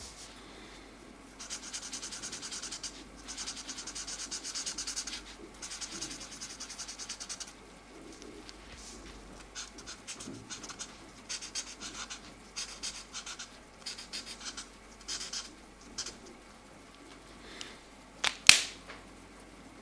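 Felt-tip markers scratching quickly back and forth on colouring-book paper while filling in colour, in spells of a second or two with short pauses between them. A single sharp click near the end.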